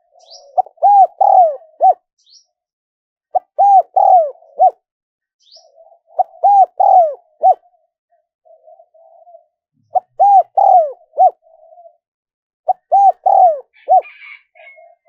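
Spotted dove cooing: five phrases, each of four or five arched coos, repeated about every three seconds.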